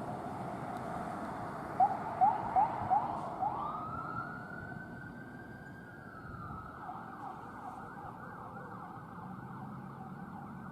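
Emergency vehicle's electronic siren: four short rising chirps, then a long wail that climbs and slowly falls, switching to a fast repeating yelp over steady road noise.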